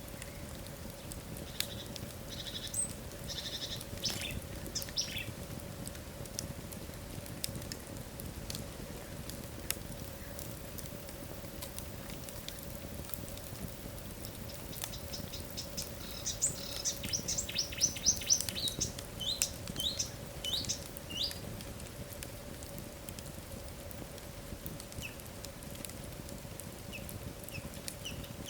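Wood fire crackling, with scattered sharp pops over a steady low rush and a faint hum. Small birds chirp in two bursts of quick high calls, a couple of seconds in and again past the middle.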